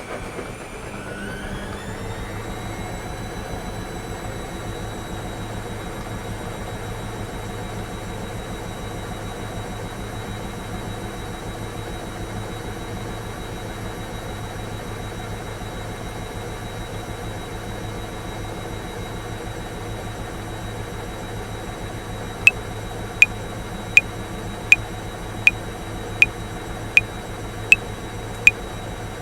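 Washing machine running: its motor whine rises in pitch over the first few seconds as the drum speeds up, then holds as a steady whir. About 22 seconds in, a metronome begins clicking over it at 80 beats a minute.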